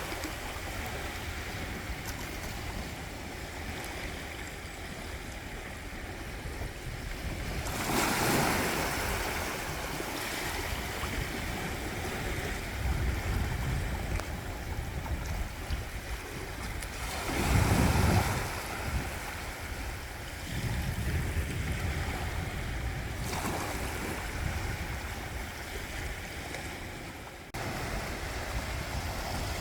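Sea waves breaking and washing up a beach, swelling louder about eight seconds in and again around eighteen seconds, with low wind rumble on the microphone. The sound drops and then jumps back suddenly a couple of seconds before the end.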